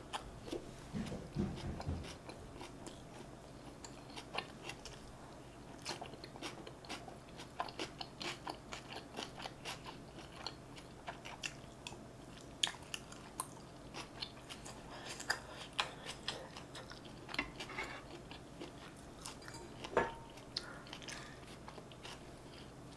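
Close chewing and wet mouth sounds of a person eating North Korean stuffed rice dishes (tofu rice and artificial-meat rice), with many small smacks and clicks. A sharper click comes near the end.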